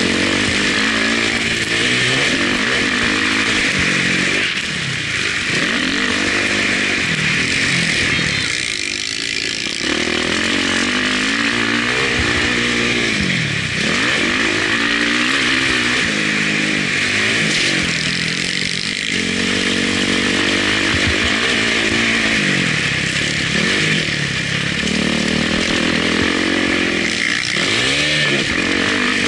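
Motocross bike engine revving up and down over and over as the rider works the throttle through the gears, with a steady hiss over it. The revs drop off briefly about 9 seconds in and again about 19 seconds in.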